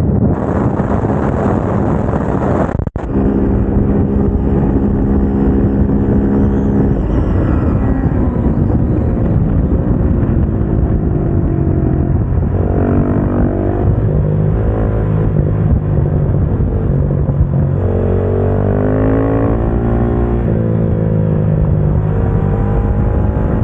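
KTM 690 SMC-R's single-cylinder engine heard from onboard while riding on track. Wind rush dominates the first three seconds, with a sudden brief drop in sound about three seconds in. The engine then holds a steady note for a few seconds, and later revs up and down repeatedly as the bike accelerates and slows through corners.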